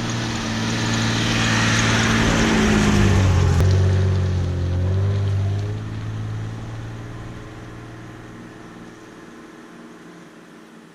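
2000 Jeep Cherokee XJ's engine driving by: it swells to its loudest about three seconds in, dips slightly in pitch, then fades steadily as the Jeep pulls away.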